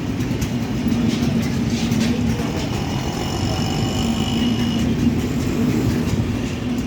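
Train running through a level crossing: a steady low rumble with scattered clicks, and a thin high tone that comes in about three seconds in and stops under two seconds later.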